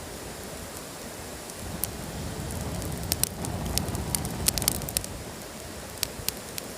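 Wood campfire crackling, with sharp pops bunched together a few seconds in and a few more later, over a steady low rushing noise.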